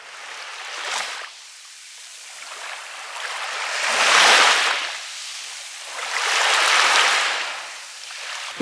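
Sea waves breaking and washing up a beach, swelling and fading in three surges about three seconds apart, the loudest about four seconds in.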